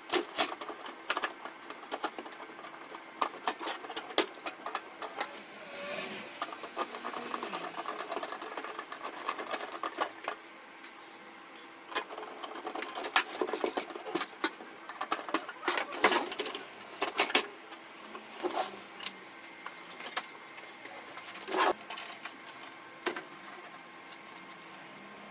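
Canon MF4018 laser printer's mechanism clicking and clattering irregularly over a faint steady hum.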